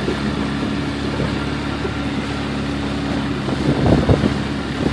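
Boat motor running steadily under way, a constant low drone under wind and water noise, with a few brief low buffets about four seconds in.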